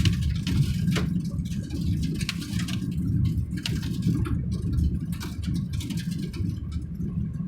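Vehicle driving along a road: a steady low rumble of engine and tyres, with frequent sharp clicks and knocks over it.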